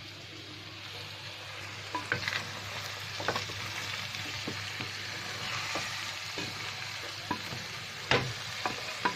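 Chicken pieces frying in oil and masala in an aluminium pot, sizzling steadily while a wooden spatula stirs them, with a few sharp knocks of the spatula against the pot.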